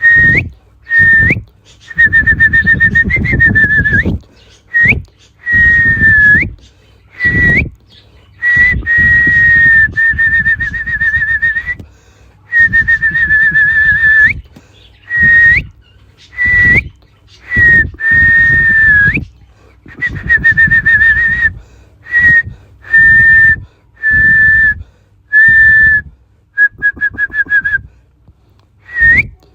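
African parrot whistling: a long run of repeated whistles on one high note, each held from a fraction of a second to a few seconds, several ending with a quick upward flick.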